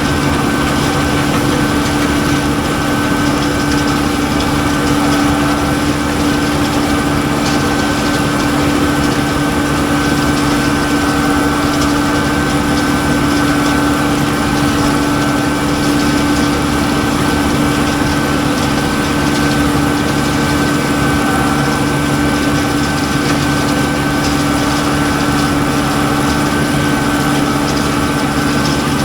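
Tractor and poultry-litter cruster running steadily: a constant engine drone with a steady whine over it.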